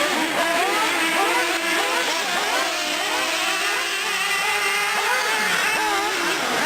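Several nitro R/C trucks and buggies running together, their small two-stroke glow engines revving up and down. The overlapping engine notes keep rising and falling in pitch as the cars accelerate and back off.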